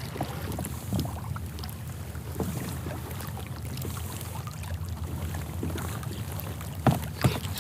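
Water lapping and washing against a kayak hull with small knocks of gear, and two sharper clicks near the end.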